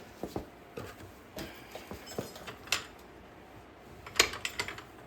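Scattered metallic clinks and knocks of tools and parts being handled, with a quick run of sharp clinks about four seconds in.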